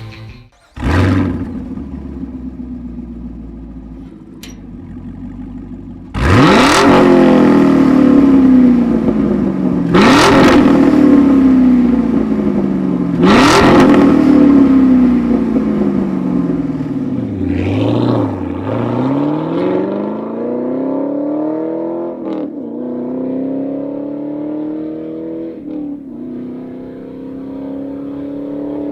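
Chevrolet Camaro SS 6.2-litre V8 through a Borla axle-back exhaust: it fires up with a loud flare about a second in and settles to idle, is revved sharply three times with the revs falling back slowly, then accelerates with the pitch climbing and breaking at two upshifts.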